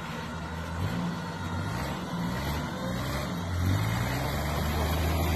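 Off-road 4x4 engine running under load during a tow through deep snow, revving up and getting louder about three and a half seconds in.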